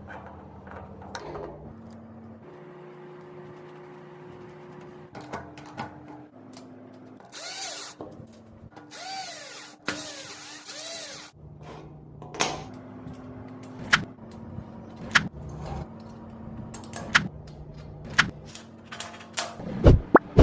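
Power drill or driver run in a few short bursts, its pitch rising and falling with each trigger pull, followed by sharp metallic clicks and knocks of tools and parts during clutch fitting.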